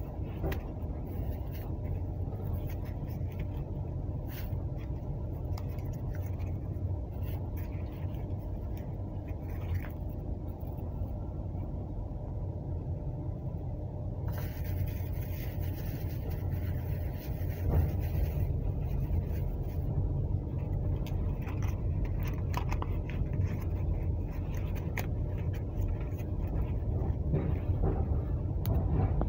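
Steady low rumble of a moving passenger train heard from inside the carriage. Paper and plastic wrapping rustles and crinkles as it is handled, with a louder patch of a few seconds about halfway through.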